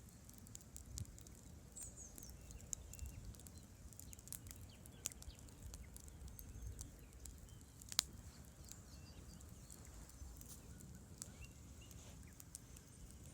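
Wood campfire crackling with irregular sharp pops, one louder snap about eight seconds in, over a low steady murmur of river water.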